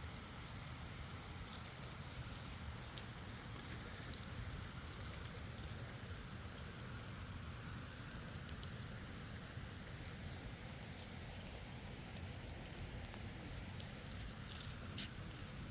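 Light rain falling: a steady hiss of drops with scattered faint ticks, over a low rumble.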